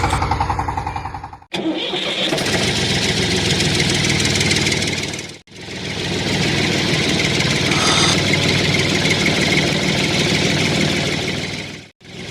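A small engine-like motor running steadily, broken by abrupt cuts about a second and a half in and again near the middle and end.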